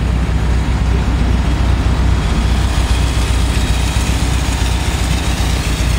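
Air-cooled flat-four engine of a Volkswagen split-window bus idling steadily with an even low hum.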